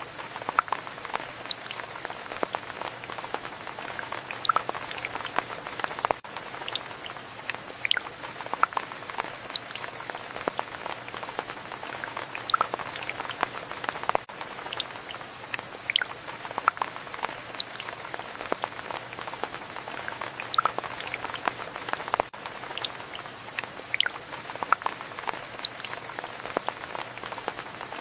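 Steady rain, with many separate drops landing close by in an irregular patter over a soft hiss.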